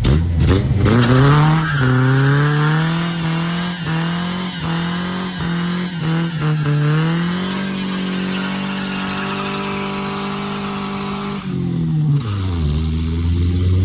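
Ford Ranger pickup's engine revving up and holding a steady high speed for several seconds, with a few short jolts early on. Near the end it drops back to idle.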